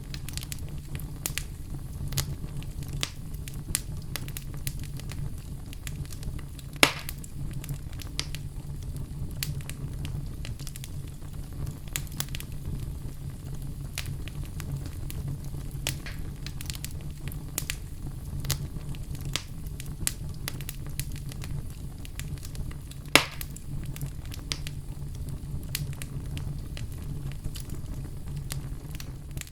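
Oak logs burning in a fireplace: a steady low rumble of flames with frequent small crackles, and two loud pops, about seven seconds in and again about twenty-three seconds in.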